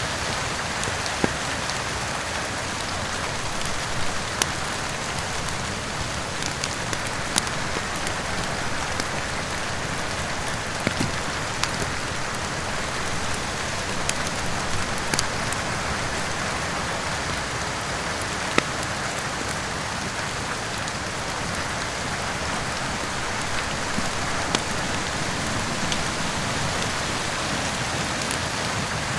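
Steady heavy rain hissing, with sharp crackles from a wood fire every few seconds.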